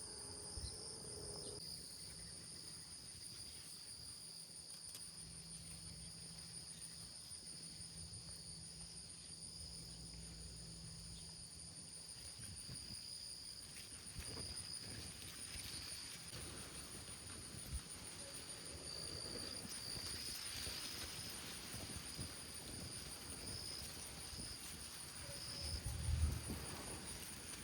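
Steady chorus of insects, a high-pitched trilling in two bands, with a brief low rumble near the end.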